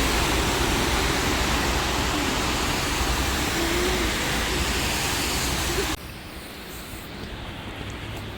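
Rain and wet-street ambience: a steady rushing hiss with a low rumble underneath. It cuts off abruptly about six seconds in, leaving a much quieter background.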